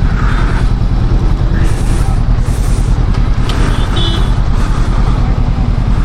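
Steady low rumble of a motorcycle engine and surrounding road traffic in a highway jam, with a short high-pitched beep about four seconds in.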